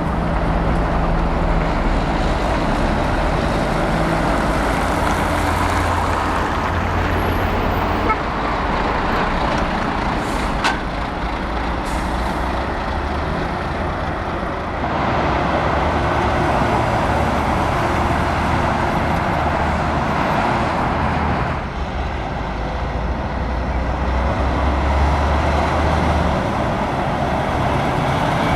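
Heavy diesel trucks running and driving past one after another, the deep engine drone swelling and fading as each comes and goes, with a couple of short sharp clicks about a third of the way in.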